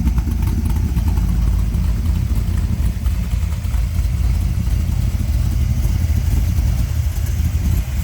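A 406-cubic-inch V8 idling steadily through a Flowmaster HP2 muffler with 2.5-inch exhaust, a low, even exhaust note.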